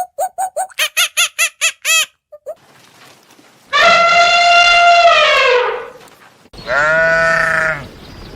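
A quick run of short squeaky calls, about five a second, for the first two seconds, then a goat bleating twice: one long call that drops in pitch as it ends, and a shorter, trembling bleat.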